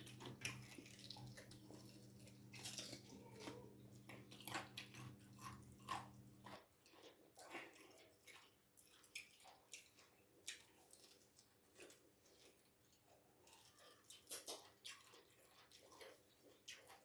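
Close-up mouth sounds of someone eating boiled bone soup with ugali: irregular chewing, smacking and crunching on the bones. A low steady hum underneath stops about six and a half seconds in.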